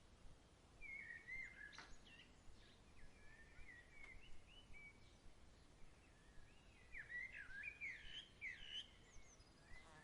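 Songbirds singing faintly in quick rising and falling chirps, in several runs that are busiest near the end, over a faint steady hiss of outdoor background noise.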